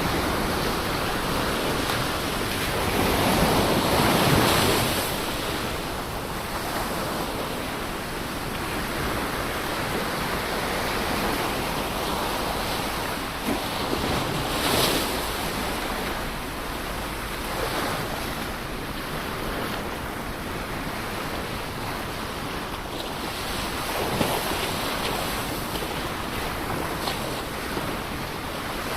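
Ocean waves washing onto a shore in a steady surf noise, with the biggest wave breaking about four seconds in and a smaller sharp splash about halfway through.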